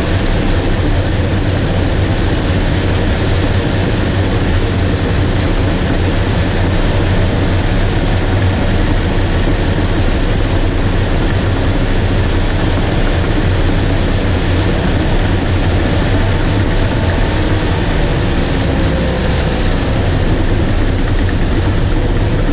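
Bulldozer's diesel engine running loud and steady under load, with a strong low drone, while it strips topsoil.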